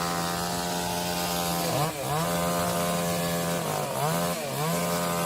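Chainsaw running at high revs while cutting; its pitch dips and recovers twice as the chain loads up in the wood.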